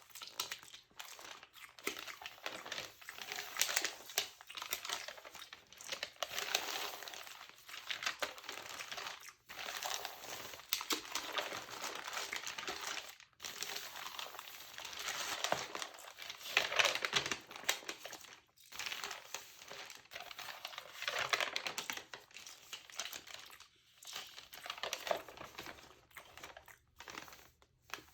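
Textured magazine paper being crinkled and handled, crackling in irregular swells every second or two with brief pauses between.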